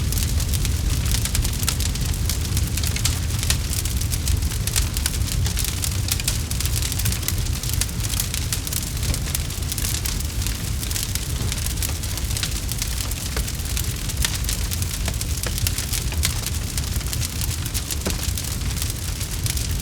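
Campfire crackling: many quick, irregular sharp pops and snaps over a steady low rumble of the burning fire.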